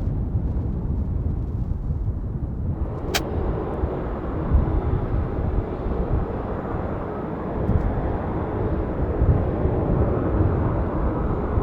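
Boeing 747-400F jet engines at low thrust during arrival and taxi, a deep continuous rumble. About three seconds in there is a click, and from then on a steady higher-pitched jet whine sits over the rumble.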